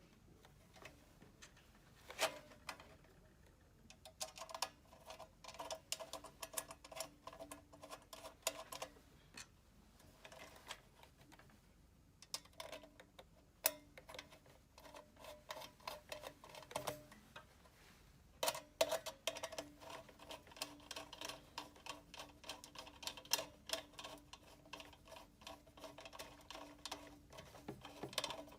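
Screwdriver turning screws into the plastic cover of a convection oven's lid: runs of quick clicking ticks with a faint squeak, stopping twice briefly.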